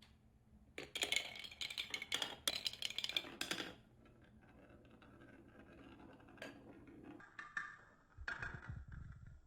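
Small colourful balls clattering and rattling down a wooden marble-run track: a dense run of clicks for about three seconds, then a quieter rolling rattle, with another short burst of clicks near the end.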